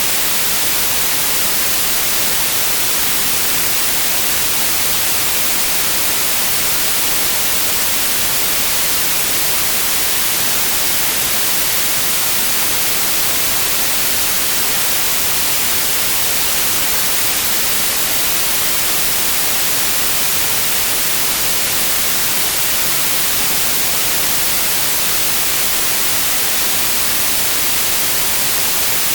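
Steady white noise: an even, unchanging hiss across all frequencies, brightest in the highs.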